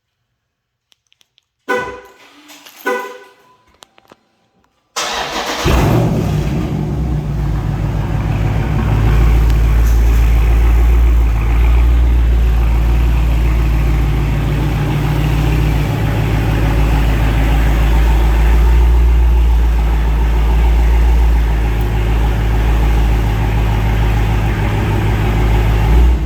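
Dodge Charger Scat Pack's 392 HEMI V8 cold-starting: two short beeps, then the engine catches suddenly with a brief rev and settles into a steady, loud cold-start idle that cuts off near the end.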